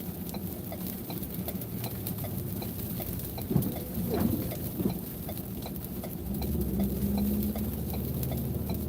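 A car's turn-signal or hazard flasher ticking steadily, about three clicks a second, over a low cabin hum. A few short louder knocks come about midway through, and the hum swells near the end.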